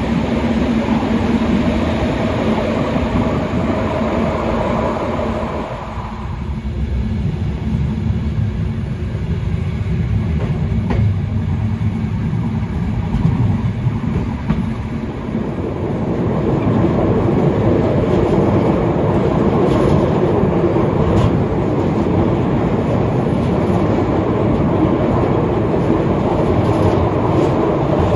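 Electric passenger train running along the rails: a steady rolling rumble of wheels on track with a light clickety-clack. The noise drops about six seconds in and builds again in the second half.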